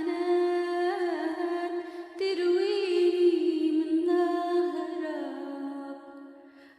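A woman singing an Arabic hymn, drawing out long held notes, with a new phrase starting about two seconds in. It fades away near the end.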